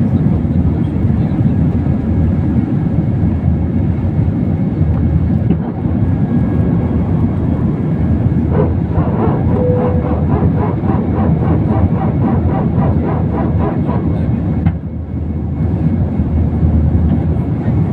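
Airbus A320 jet engines at takeoff power: a loud, steady, deep rumble. For several seconds midway a regular pulsing runs through it, a few beats a second.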